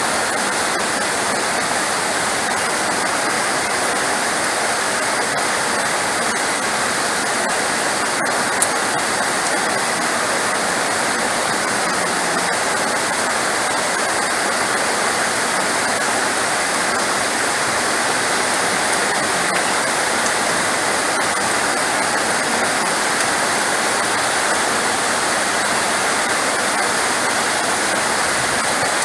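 Heavy rain falling as a steady, even hiss, with one brief tick about eight and a half seconds in.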